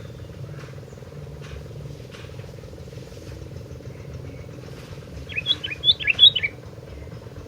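Sooty-headed bulbul (kutilang) singing a short burst of quick, bubbling whistled notes about two-thirds of the way in, over a steady low background drone.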